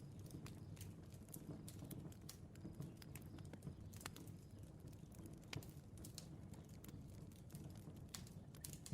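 Faint bonfire crackling: irregular small snaps and pops over a soft low rumble of the burning fire.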